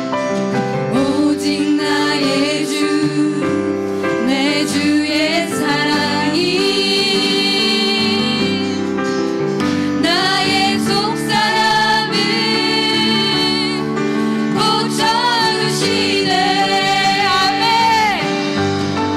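Slow gospel worship song played live by a band: sustained keyboard chords under a melody sung in long held notes with vibrato.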